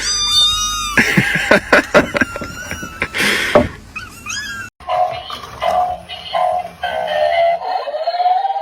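A cat's drawn-out meow, followed by several knocks and clatter. Then, after a sudden cut a little past halfway, music with high, synthetic-sounding singing in a steady rhythm.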